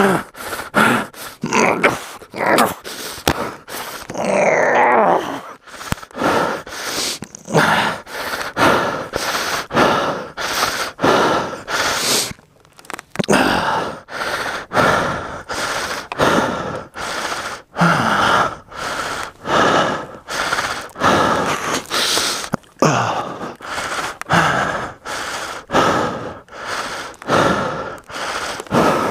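A man panting hard with rapid, regular breaths and grunts of strain, worn out from heaving a heavy adventure motorcycle upright out of a muddy rut. The breathing pauses briefly about twelve seconds in.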